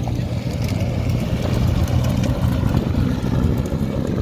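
Audi S2 Quattro rally car's turbocharged five-cylinder engine running at a steady pitch, with faint scattered ticks over it.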